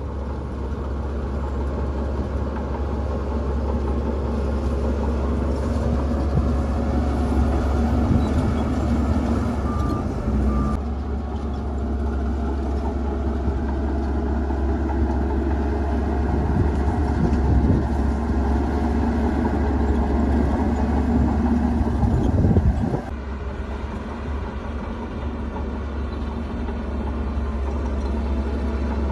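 Heavy diesel engine of earthmoving machinery running steadily under load, swelling and easing in loudness. Two short high beeps about ten seconds in, and the sound drops suddenly about 23 seconds in.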